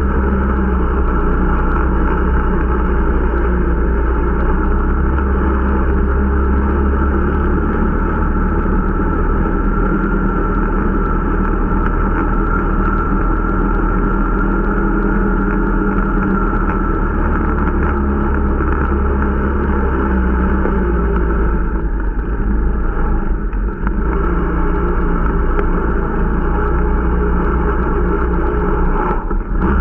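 Irbis Dingo T125 snowmobile's 125 cc four-stroke engine running steadily under way on a new machine being run in, easing off briefly about 22 seconds in and again near the end.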